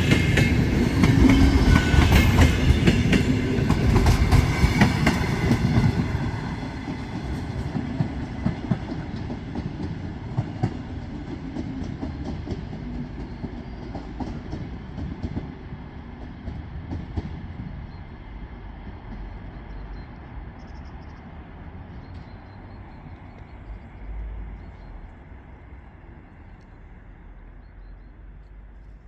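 Train running on the rails with wheels clattering over rail joints. It is loudest in the first six seconds, then fades slowly as it moves away.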